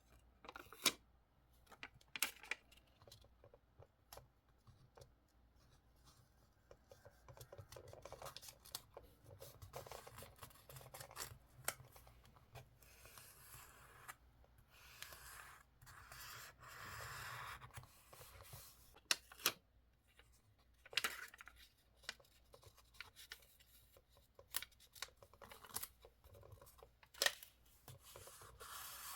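Scissors snipping paper in scattered sharp cuts, with longer stretches of paper rustling in between, at a quiet close-up level.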